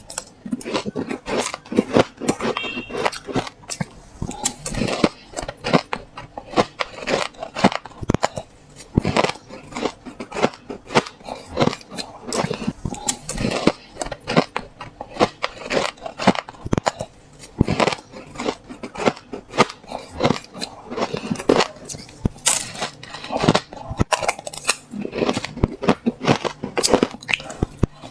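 Someone biting and chewing chunks of soft white ice: a rapid run of sharp crunches, several a second, with short pauses between bites.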